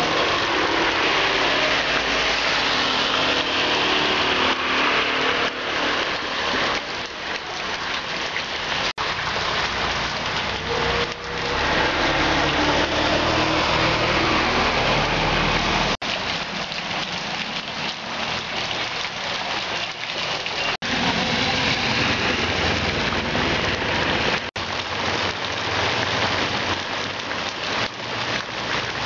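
Heavy rain pouring onto a road and into flowing runoff water, a steady hiss of falling drops. About halfway through, a truck drives past on the wet road, adding low engine and tyre noise.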